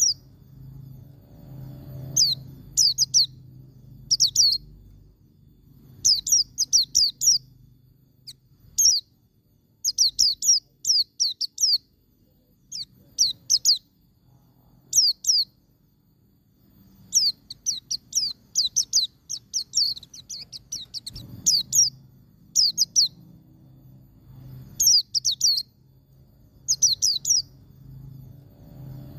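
White-eye (pleci) singing in the 'ngalas' style: short bursts of quick, high, sharp notes that slur downward, three to six at a time, repeated every second or two.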